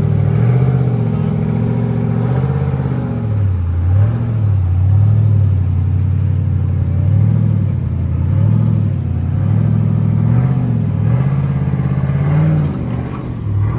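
Off-road truck engine working on a trail climb, its revs rising and falling again and again as the throttle is blipped.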